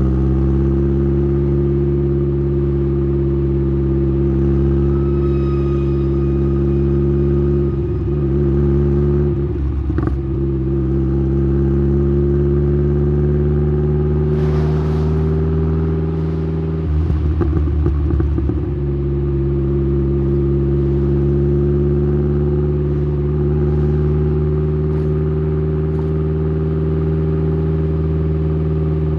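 Exhaust note of a tuned Saab 9-3's B204 2.0-litre turbo four-cylinder, heard at the tailpipe through a 3-inch downpipe and Simons muffler, cruising at a steady engine speed with the pitch creeping up slightly at first. The drone roughens briefly twice, about eight seconds in and again around seventeen seconds.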